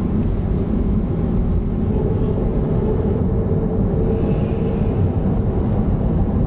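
Steady low rumble of a Boeing 737-300's CFM56 jet engines heard inside the passenger cabin. A faint held hum joins in for a few seconds in the middle.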